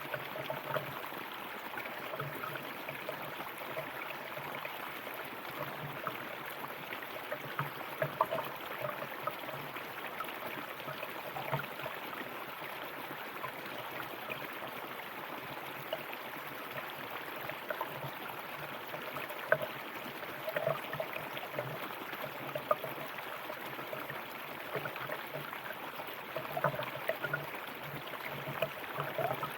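River water running, a steady rush with frequent small gurgles and splashes.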